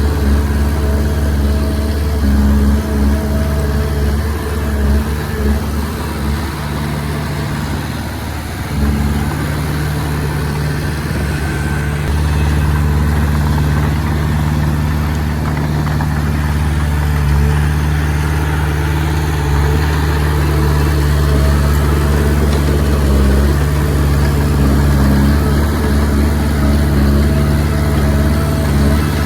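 Komatsu D20P bulldozer's diesel engine running steadily. It eases off briefly a few seconds in and picks back up about nine seconds in.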